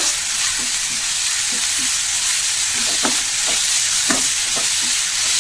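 Chopped onions, curry leaves and ginger-garlic-green-chilli paste sizzling steadily in hot oil in a non-stick kadai while a spatula stirs them. A few short scrapes and taps of the spatula against the pan come in the second half.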